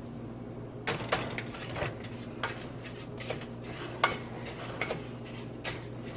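A utensil stirring rice as it toasts golden brown in oil in a pot, scraping and clinking against the pot. It starts about a second in and repeats every half second or so.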